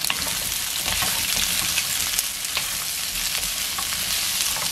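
Boneless chicken pieces and rice cakes sizzling as they stir-fry in a nonstick wok, turned with a wooden spoon, with a steady hiss and a few light clicks and scrapes of the spoon.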